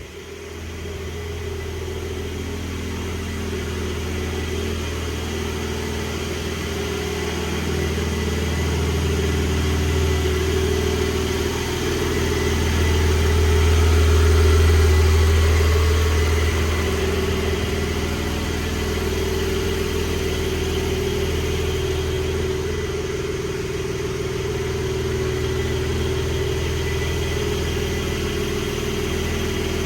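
2022 Porsche Turbo S engine idling steadily shortly after a cold start, swelling louder for a few seconds about halfway through before settling back.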